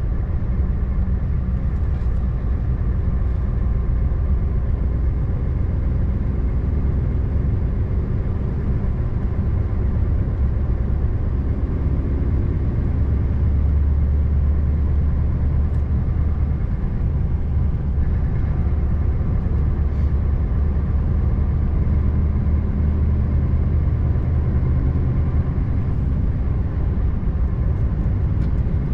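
Scania R590 truck's V8 diesel engine running steadily as the truck drives along, a low drone whose note shifts slightly now and then.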